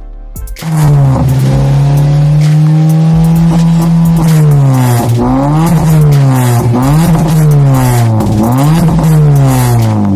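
Car exhaust through an HKS Hi Power Titan stainless muffler with the resonator deleted, loud as the engine is revved. It comes in about half a second in and holds a high rev. From about four seconds in it drops and climbs again in quick throttle blips, about one a second.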